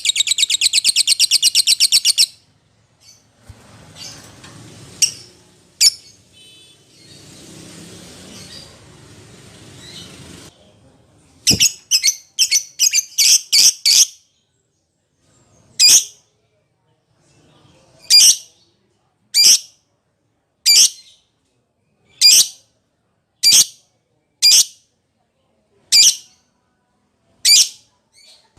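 Lovebird calling: a fast chatter for about two seconds, then after a pause a quick run of sharp high-pitched calls, followed by single sharp calls about every second and a half. Contact calling of the kind used to call a companion or a rival bird.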